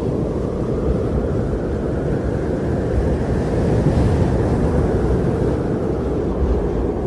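Strong blizzard wind blowing in a steady low rumbling rush, swelling a little in the middle.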